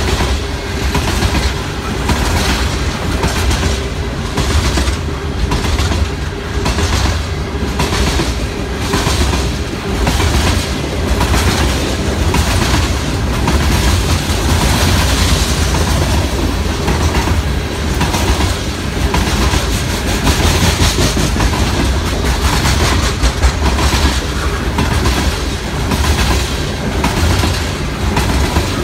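Coal train's hopper cars rolling past, a steady rumble with the wheels clacking regularly over the rail joints.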